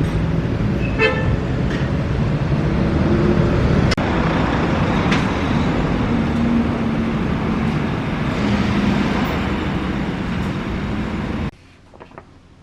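Road traffic noise: a steady rumble and hiss of cars, with a short pitched toot about a second in. It cuts off abruptly near the end to quiet room sound.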